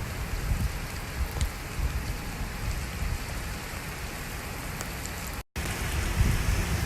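Heavy rain falling, an even hiss, with low rumbles that swell near the end. The sound cuts out completely for an instant about five and a half seconds in.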